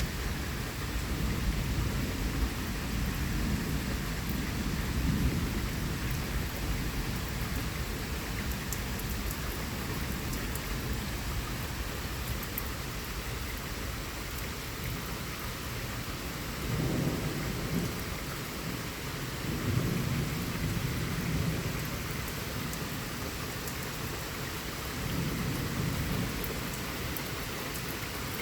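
Steady rain pouring during a thunderstorm, with repeated low rumbles of thunder: a long rolling one in the first few seconds, then separate rumbles about halfway through and near the end.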